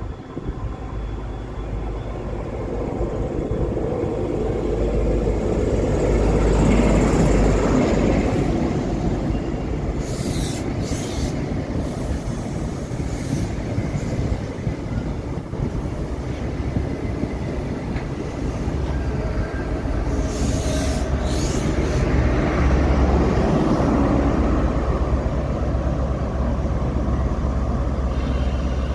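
Diesel locomotive of an engineering train moving slowly with its engine running, the wheels giving short high squeals on the rails, a pair about ten seconds in and another pair about twenty seconds in.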